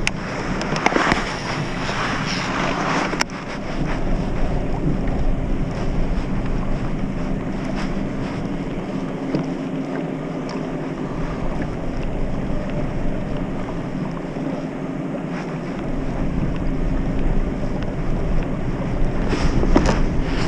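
Wind buffeting the microphone over water against a kayak, with a few light knocks about a second in, about three seconds in and near the end.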